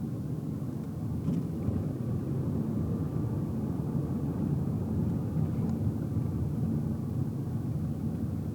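Steady low rumble of a car's engine and tyre road noise heard from inside the cabin while driving, with a faint steady hum and a couple of small light ticks.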